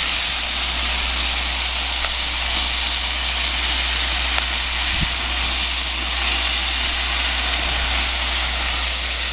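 Burger patties sizzling steadily in a skillet over a propane camp stove.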